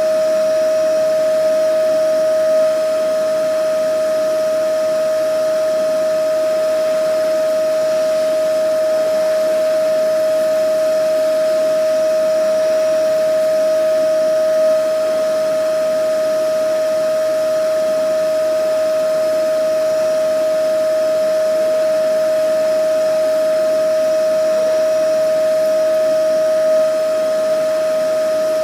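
Vacuum cleaner running steadily: a constant high whine over a broad rushing hiss.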